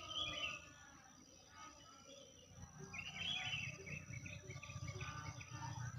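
Small birds chirping and singing, with a quick run of chirps starting about two and a half seconds in, over a steady thin high tone and a low rumble in the second half.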